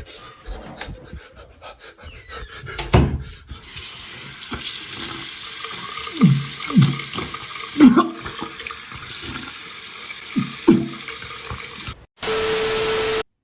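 Water running from a tap into a sink, a steady rush, with several short groans falling in pitch over it and a few knocks before it starts. Near the end a loud steady hiss with one held tone lasts about a second, then the sound cuts off.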